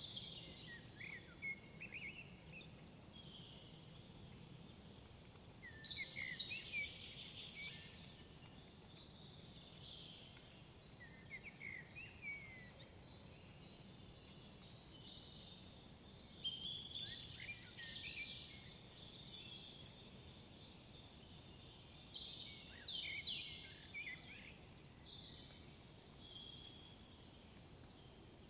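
Songbirds singing in a forest: a phrase of chirps and high, quick trills every five or six seconds, over a faint steady background hush.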